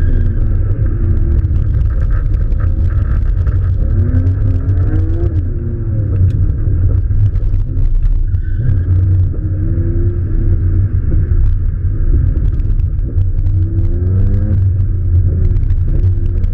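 Car engine heard from on board, muffled, revving up through the gears and dropping back again and again as the car is driven hard around an autocross course, over a constant low rumble.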